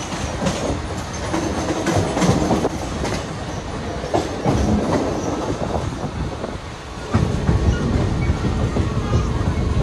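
Mumbai suburban local train running, its wheels clattering over the rail joints, heard from its open doorway. The low rumble grows louder about seven seconds in.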